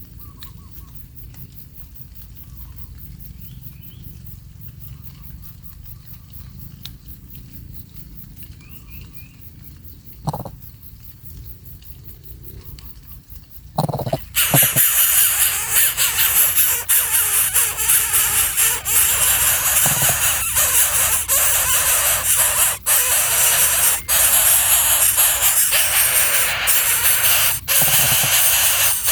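Faint short high chirps over a low rumble, then about halfway through a loud, steady hiss starts abruptly and continues with brief dropouts.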